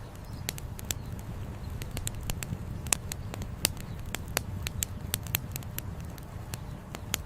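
Wood campfire crackling: irregular sharp pops and snaps of burning firewood, a couple of louder pops about three seconds in, over a steady low rumble.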